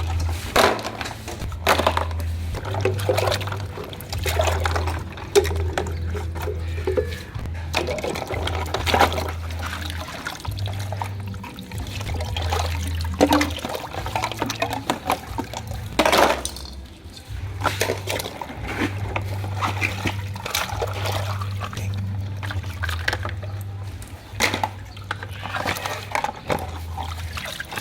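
Water splashing and pouring around a toy truck, with scattered knocks and clicks, over a low hum that comes and goes in steps.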